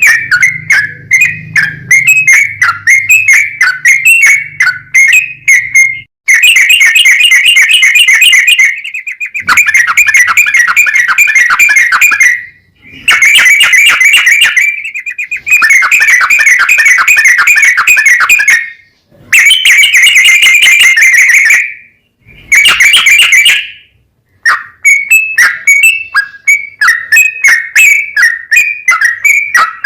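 Yellow-vented bulbul (trucukan) singing a long, rapid song of whistled notes. The notes come separately and quickly at first and again near the end, and in between run together in several dense runs of two to three seconds each, broken by short pauses.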